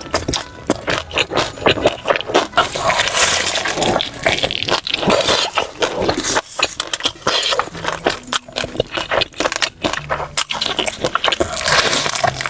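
Close-miked crunching and chewing of crispy fried chicken: a dense, irregular run of crackly crunches.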